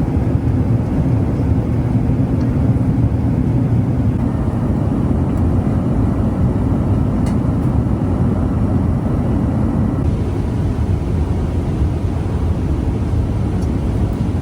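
Steady low rumble of cabin noise inside an Airbus A380-800, the engines and airflow heard from an economy seat.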